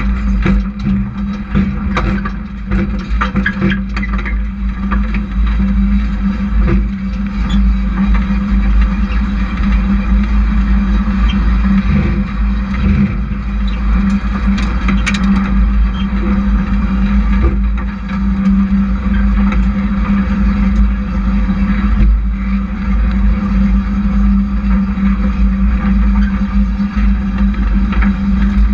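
Hobby-class race truck engines running at speed on the track, a loud steady drone with a few sharp ticks in the first few seconds.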